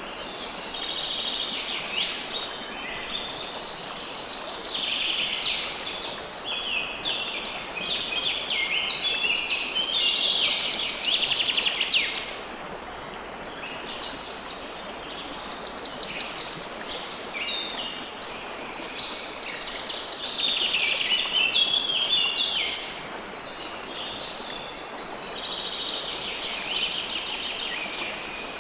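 Songbirds singing in bouts of rapid trills and warbling phrases, several seconds each with short pauses between, over a steady rush of running water.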